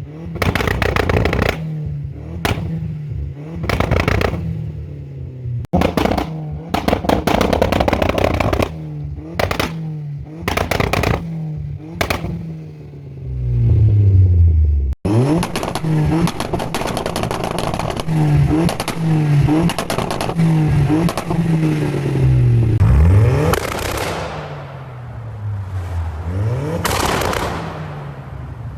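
Stage 1 tuned Audi A4's turbocharged engine revving hard on launch control, its pitch repeatedly dipping and climbing again. Repeated sharp bangs from the exhaust fill the first half.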